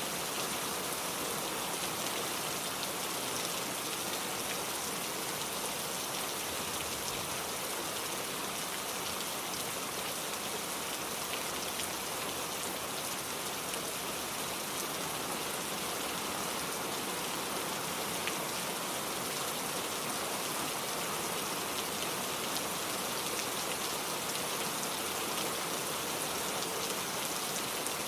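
Steady rainfall: a dense, even patter of rain with scattered individual drops.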